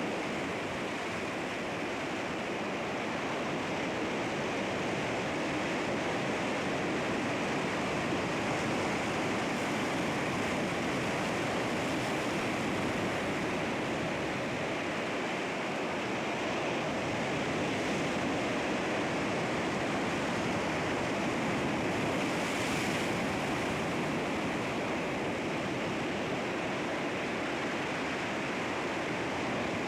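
Sea waves washing against rocks, a steady rushing wash with slow, gentle swells in loudness.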